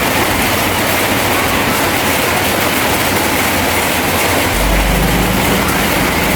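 Crawler bulldozer working: a steady diesel engine with steel tracks clattering, and a deeper low drone coming in about four and a half seconds in.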